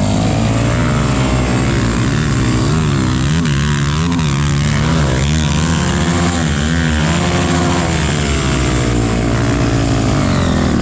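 Several off-road vehicle engines running together, their pitch rising and falling unevenly as they are revved hard while trying to get through mud.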